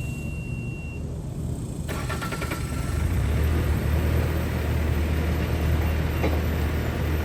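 Bobcat T650 track skid steer's diesel engine being restarted: a short beep, then about two seconds in the starter cranks briefly and the engine catches and settles into a steady run.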